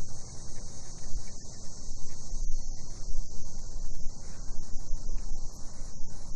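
A steady, unbroken chorus of cicadas singing in a high, even buzz, over a low, uneven rumble.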